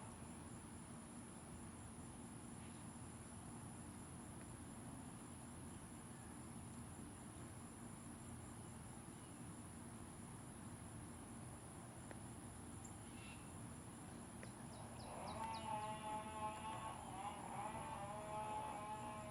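A steady high-pitched whine over faint outdoor background. About 15 seconds in, a louder, wavering pitched sound with several stacked tones joins in, shortly after a quick run of faint ticks.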